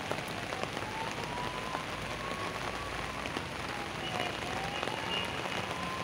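Steady rain falling, an even hiss of many drops, with a faint tone slowly rising and falling in the background.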